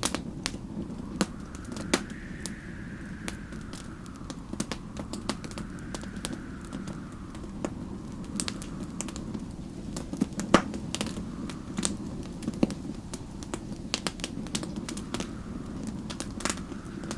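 Wood fire crackling with irregular sharp pops, the loudest about ten seconds in, over a steady low rumble. Behind it, snowstorm wind howls in slow gusts that rise and fall every few seconds.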